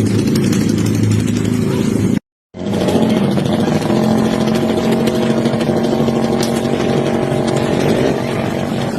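Motorcycle with a loud aftermarket open exhaust (knalpot brong) running steadily. The sound cuts out completely for a moment a little over two seconds in, then goes on.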